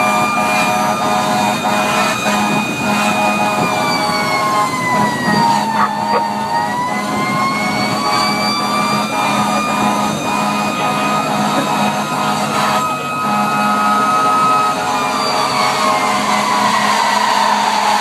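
Fire engine siren wailing, its pitch sliding slowly down and back up, holding steady for a few seconds, then falling away near the end, over the steady hum of the truck's engine.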